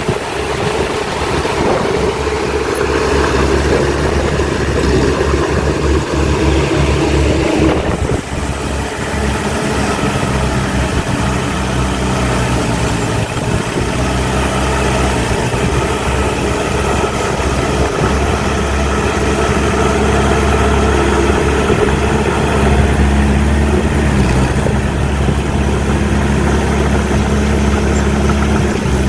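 Diesel engine of heavy earthmoving machinery running steadily, with a short change in the sound about eight seconds in.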